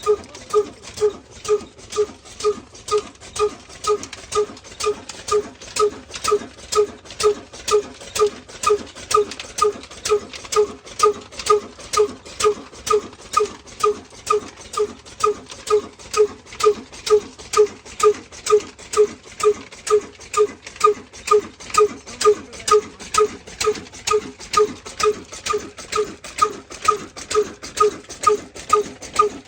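Diesel engine running at a slow, even beat of about two exhaust pulses a second.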